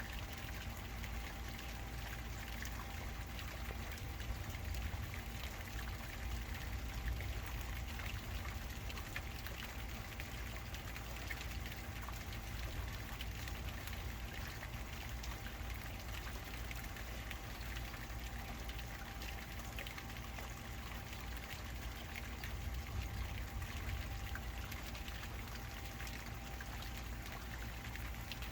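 Steady rain falling and running, with a faint steady hum underneath.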